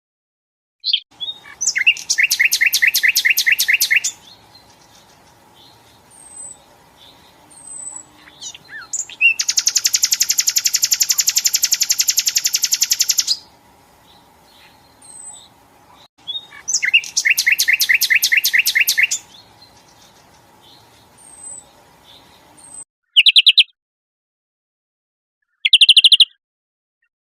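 Songbird song from a compiled song recording: loud, rapid, evenly repeated trills in blocks of two to four seconds, three times, with short high chirps between them. A faint steady hum sits underneath. Near the end, after a sudden silent gap, come two short trill bursts.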